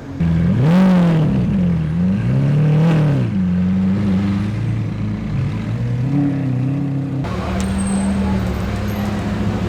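Lamborghini supercar engine revved twice in quick blips, each rising and falling in pitch, then running steadily at low revs as it pulls away. After an abrupt cut near the end, another engine is heard holding a steady low rumble.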